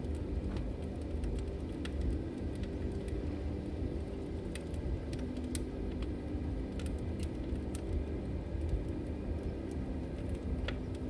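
Log fire burning: a steady low rumble of flames with scattered sharp crackles and pops from the wood.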